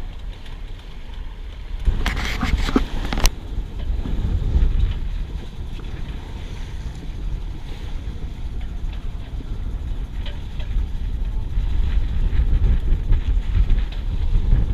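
Wind buffeting the microphone aboard a sailboat under way, a steady low rumble, with a brief louder rush about two seconds in.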